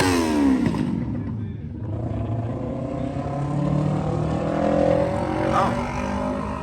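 Car engine revving: its pitch drops as the revs fall off in the first second. Then an engine runs steadily, its pitch climbing slowly.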